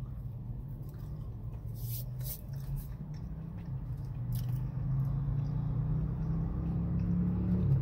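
Chewing on a french fry, with a few short crunchy clicks around two seconds in. Under it runs a steady low vehicle hum that grows louder toward the end.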